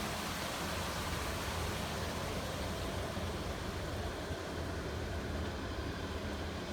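Steady outdoor background noise: an even low rumble with a hiss above it, with no distinct events.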